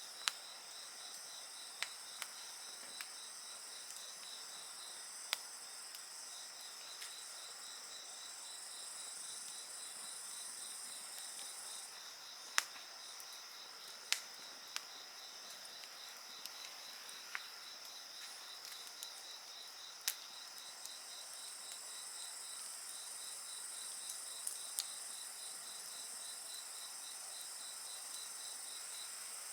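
Insects chirring together in several steady high-pitched trills, one of them a fast pulsing chirp, over the irregular sharp crackles and pops of a burning wood fire, about a dozen pops scattered through the stretch.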